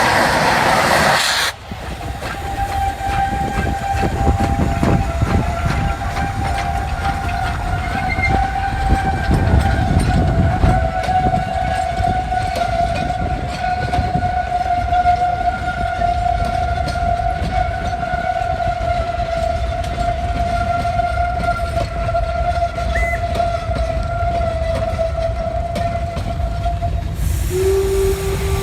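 Steam train running, a low rumble with irregular knocks under a long, steady high-pitched tone that holds for about 25 seconds and stops near the end.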